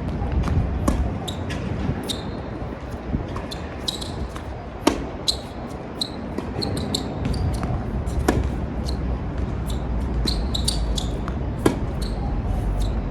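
Tennis ball being hit back and forth in a rally, sharp racket strikes and bounces, the loudest three about three and a half seconds apart. A steady low rumble of strong wind on the microphone runs underneath.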